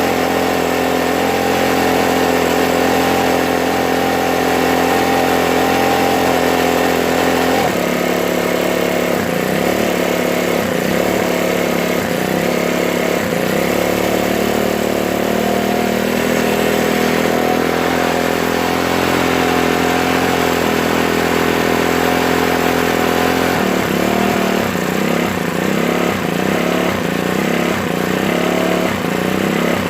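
Ryobi four-stroke leaf blower engine running. The note shifts about 8 s in and again near the end, with uneven pulsing at times. It has always idled roughly, and the owner suspects a gummed-up or sticky carburettor or throttle.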